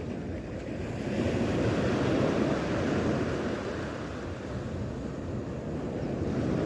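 Sea waves washing on the shore, with wind buffeting the microphone; the rush swells about two seconds in and then eases.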